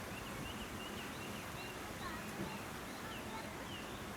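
Steady outdoor background noise with many short, high chirps scattered through it.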